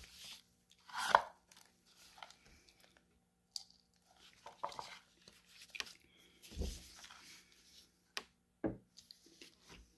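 Crunchy food being bitten and chewed close to the microphone: irregular crackling crunches, the loudest about a second in.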